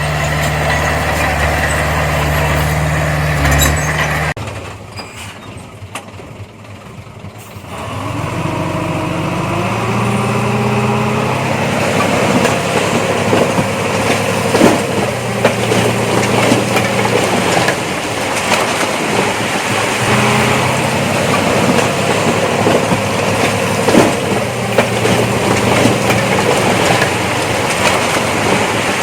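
Diesel engine of heavy earthmoving machinery running. It holds a steady note, breaks off abruptly about four seconds in, then from about eight seconds in revs up and rises and falls, with frequent metallic clanks and squeaks.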